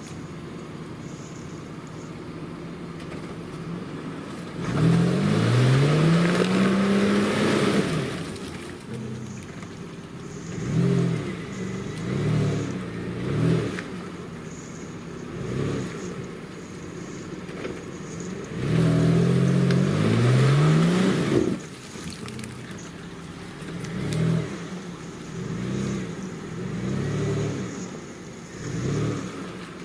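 Off-road SUV engine revving hard twice, each time rising in pitch for about three seconds before dropping back, with shorter throttle blips in between as the vehicle works through mud.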